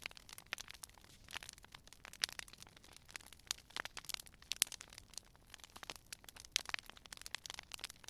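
Wood fire crackling: many irregular sharp pops and snaps, several a second, over a faint hiss.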